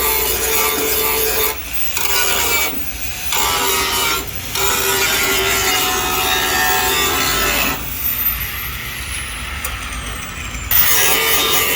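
Abrasive sanding on car body panels, a steady rasping that stops briefly several times, then goes quieter for a few seconds before starting again near the end.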